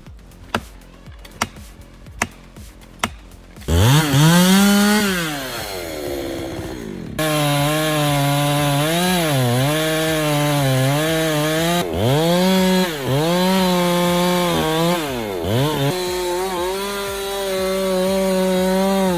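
A few sharp knocks, then about four seconds in a chainsaw revs up and falls back. From about seven seconds it runs at high revs through a cut, its pitch dipping and recovering several times as it loads up in the wood.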